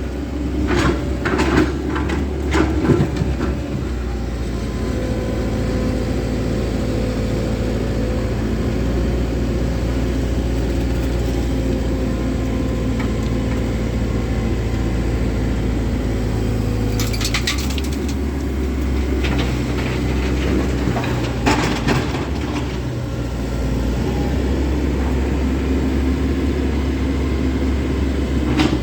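Diesel engine of a Komatsu 130-class excavator running steadily, its low note changing about seventeen seconds in. Scattered knocks and clatter come in the first three seconds and again around seventeen and twenty-one seconds.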